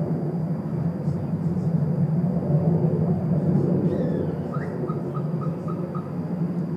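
Loud, steady low rumbling drone of unidentified origin, with no break in it. A little past the middle, a short run of about six evenly spaced chirps sounds over it.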